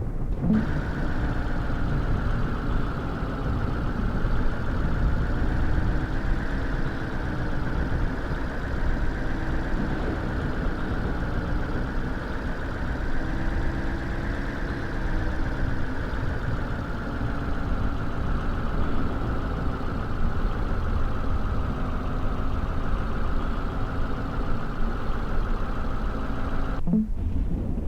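A vehicle driving: steady engine and road noise, its pitch drifting slightly up and down.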